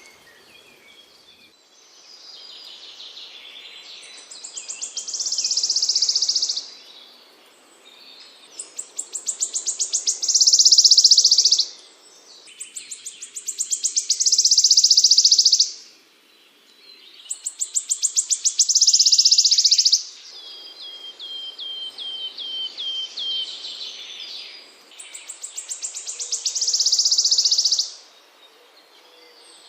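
A small songbird singing a repeated phrase: a run of quick notes that speeds up and swells into a loud, high buzzing trill, five times, about every four seconds. Between the fourth and fifth phrases comes a string of short chirps.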